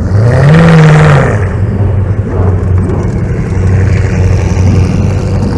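Koenigsegg hypercar V8 giving a short rev about half a second in: the pitch climbs, holds for under a second and drops back. After that, V8 engines run on at low speed with a steady, low note as the cars roll by.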